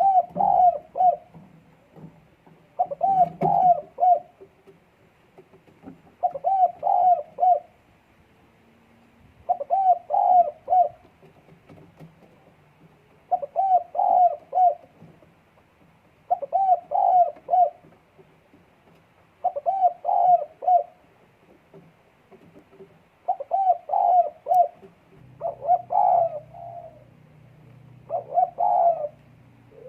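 A dove in breeding condition cooing in short phrases of a few quick notes, one roughly every three seconds, about ten times.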